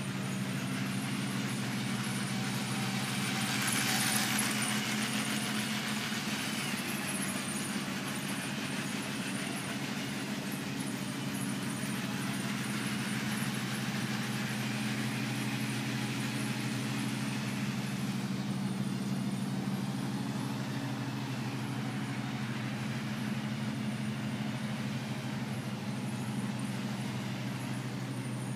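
LEGO model trains running on their layout: small electric train motors whining over a steady low hum, swelling briefly about four seconds in.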